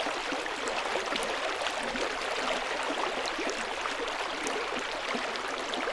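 Steady rush of flowing river water, with a patter of small splashes through it.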